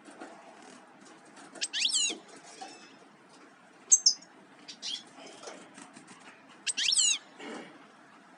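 Small songbird calling: short bursts of high, quickly falling notes, four times, with faint ticks and taps between them.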